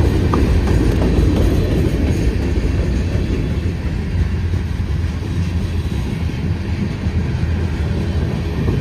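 Freight train rolling past slowly, its cars running steadily on the rails as the train slows down.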